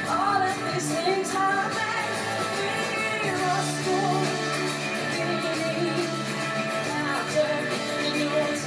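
Live band performance of an upbeat pop-rock song, with a wavering sung vocal line over guitar and drums.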